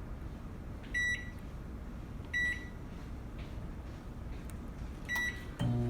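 Microwave oven keypad beeping three times as the cook time is entered, then the microwave starts and runs with a steady hum. It is being set to run for one minute.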